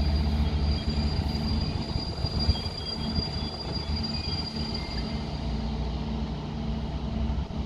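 A locomotive-hauled train running slowly, with a steady low hum from the locomotive and a thin, high, steady wheel squeal that fades out about five seconds in.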